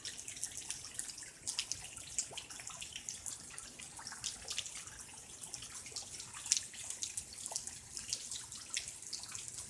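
Rain dripping: many irregular single drops tapping, over a faint steady patter.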